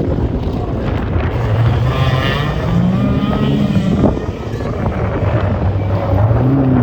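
Rally car engine accelerating hard on a stage, rising in pitch twice with a sharp pop about four seconds in between the two pulls.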